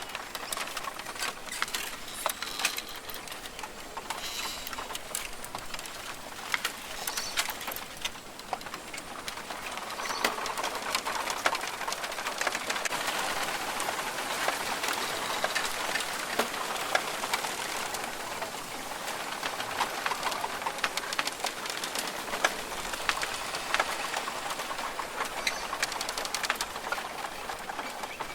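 Rainforest ambience: birds calling over a dense bed of small clicks and ticks. It grows fuller from about ten seconds in.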